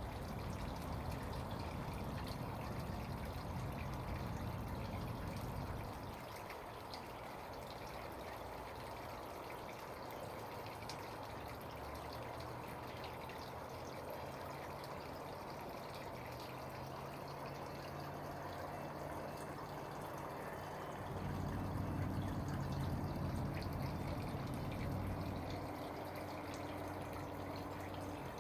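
Water trickling steadily in a bird bath. A low hum sounds under it during the first six seconds and again from about twenty-one to twenty-six seconds in.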